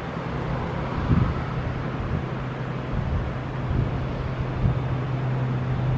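A train running with a steady low drone, and wind buffeting the microphone.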